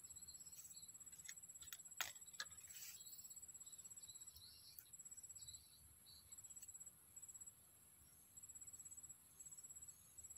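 Faint, high-pitched insect trill, a rapid pulsing buzz that stops and starts in bouts. A few sharp clicks and a brief rustle come about two seconds in.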